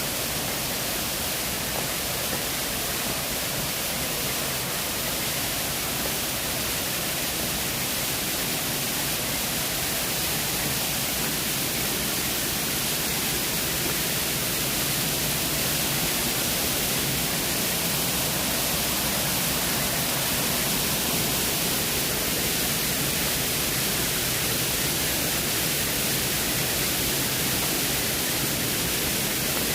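Waterfall cascades rushing: a steady, even hiss of falling water with no breaks.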